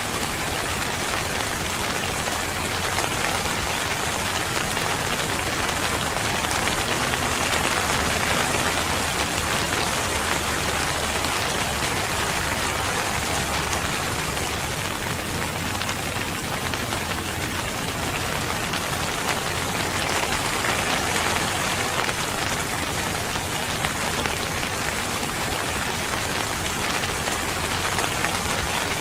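Steady rain falling on a surface, a dense even patter that swells a little and eases again.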